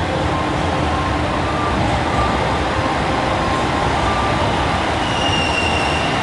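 Diesel train moving through the station: a steady rumble and rail noise, with a brief high-pitched squeal that falls slightly in pitch about five seconds in.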